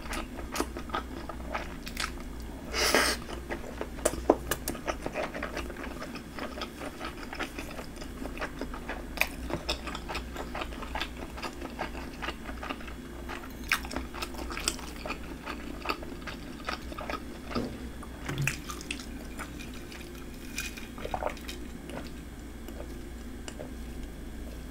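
Close-up mouth sounds of a person eating spicy red fish cake: biting and chewing the soft, wet fish cake, with many small mouth clicks and smacks. A short, louder burst of noise comes about three seconds in.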